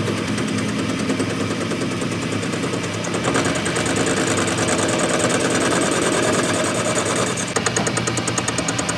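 An engine running steadily. It gets louder about three seconds in, then settles into an even pulsing beat near the end.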